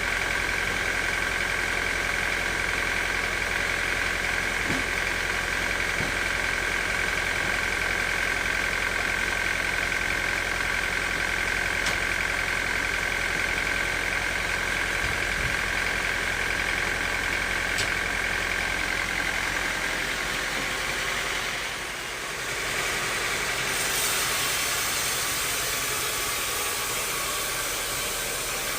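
Sawmill machinery running steadily with a constant high whine over a low hum. About 22 seconds in the whine fades and the sound briefly dips, then gives way to an even, hissing noise.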